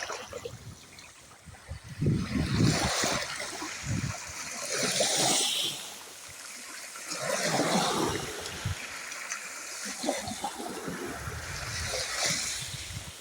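Small waves of a calm sea washing in and draining back, each wash swelling into a hiss and fading every two to three seconds.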